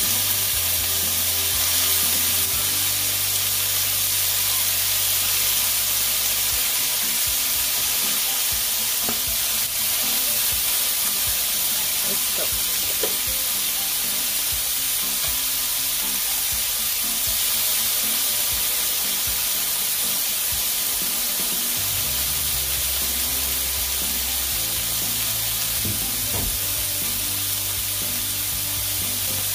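Asparagus spears and garlic sizzling in a frying pan: a steady, dense hiss, with a few faint clicks and pops.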